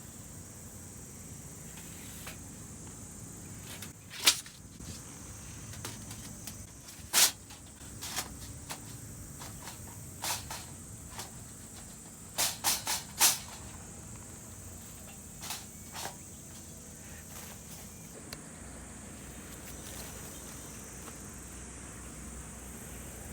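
Steady high insect chirring outdoors, with sharp clicks and knocks scattered through. The loudest single clicks come about four and seven seconds in, and a quick run of three comes near the middle.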